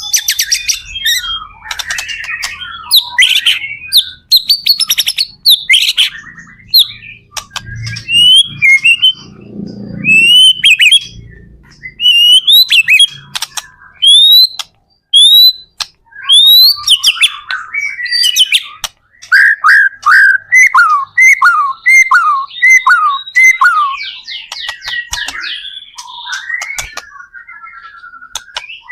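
White-rumped shama (murai batu) in full song: a fast, varied run of loud whistles, upward-sweeping notes and sharp clicks. Past the middle it delivers a quick series of repeated falling notes.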